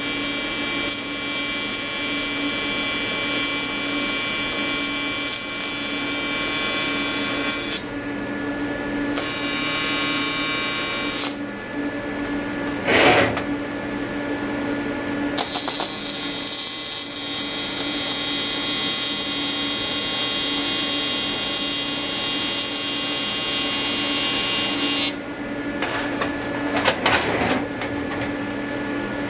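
AC square-wave TIG welding arc from an Everlast 325EXT buzzing with a hiss, stopping and restarting several times: about 8 s in, briefly around 9–11 s, and again from about 15 s to 25 s. A low steady hum from the welder carries on through the pauses, with a knock in the first pause and a few clattering knocks near the end.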